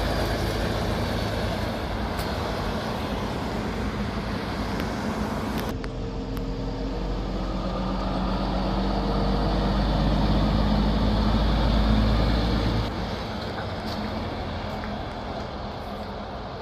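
Heavy trucks driving past: a steady rush of tyre and road noise, then after an abrupt cut a diesel truck engine running with a pitched drone that grows louder, before another sudden drop about thirteen seconds in.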